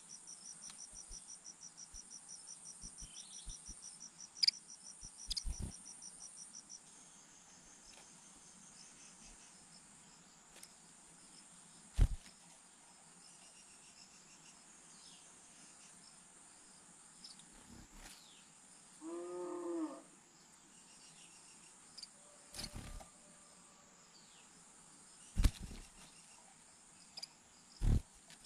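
Insect trilling in high, fast, even pulses, which stops about a quarter of the way in, over a steady faint high hum. Several sharp knocks and a short low call about two-thirds of the way through.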